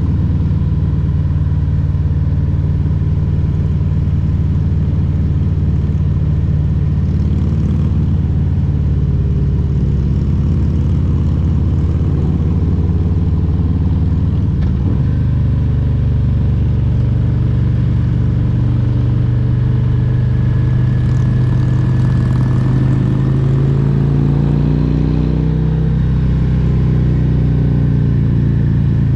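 Harley-Davidson Road Glide Special's Milwaukee-Eight 114 V-twin running steadily while riding. About halfway through the engine note changes, and in the last third its pitch climbs as the bike picks up speed.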